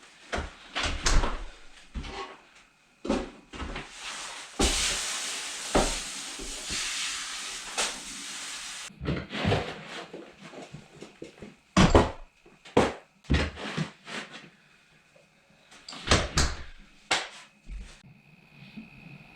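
Knocks and clatter of objects being handled in a small room, with about four seconds of hissing in the middle and a faint steady high tone starting near the end.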